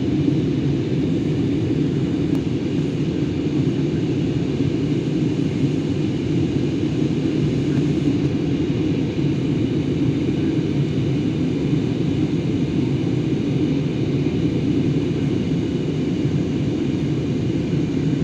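Passenger airplane cabin noise: a steady low rumble of engines and airflow that does not change.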